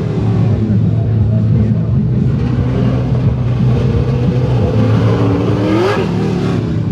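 Car engine running hard on the track, its pitch gliding up and down; about five seconds in it revs up steadily and then cuts off sharply.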